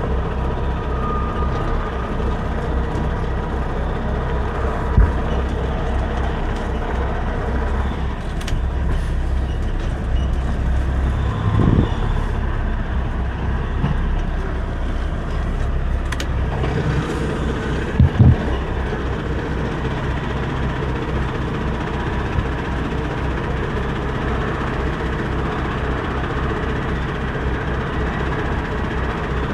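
Semi truck's diesel engine running steadily, with a few short knocks and rattles, one about a third of the way in and a louder double knock a little past halfway.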